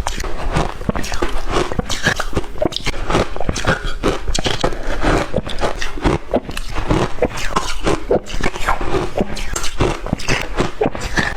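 Shaved ice being bitten and chewed: a dense, unbroken run of crisp crunches.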